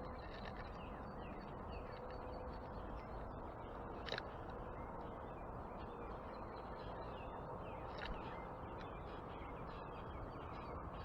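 Birds chirping and calling over a steady background hiss, with many small chirps and two sharper short calls about four and eight seconds in.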